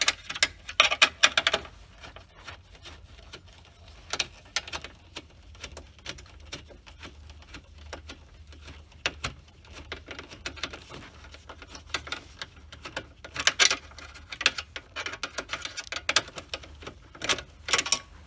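Ratchet wrench on an extension clicking in irregular bursts while the last steering-column mounting bolt is backed out, with scattered light knocks of tools and parts.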